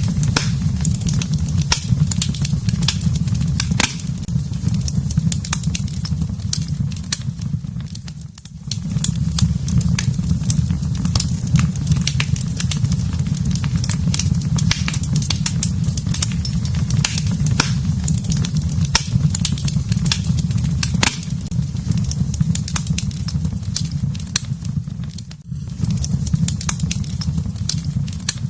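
Wood fire in a fireplace crackling, with frequent sharp pops over a steady low rumble. The sound dips briefly twice, about eight seconds in and near the end.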